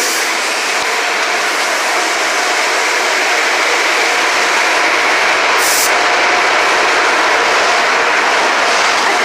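Car wash equipment running: a loud, steady rushing noise that swells slightly, with a short hiss about six seconds in.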